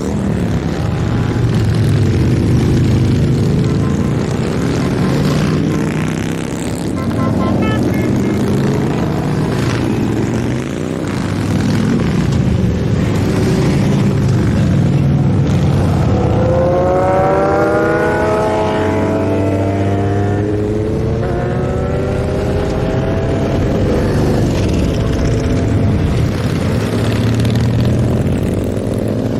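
A stream of motorcycles riding past, their engines running without a break. About halfway through, one engine's pitch rises and then falls away.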